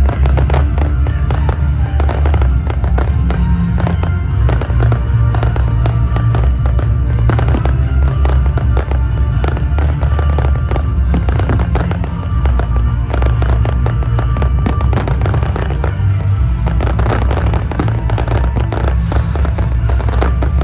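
Fireworks display going off: many bangs and crackles in quick succession, over loud music with a heavy bass.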